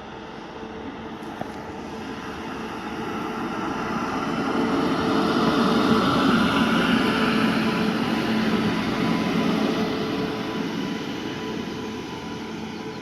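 A train passing by: its running noise grows to its loudest about halfway through and then fades away, with a few steady tones running through it.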